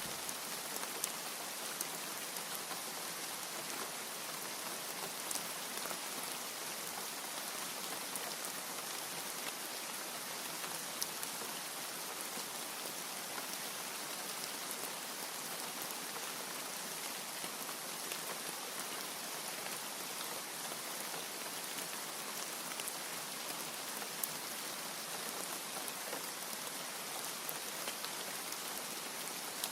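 Steady rain falling as an even hiss, with an occasional sharper drop tick.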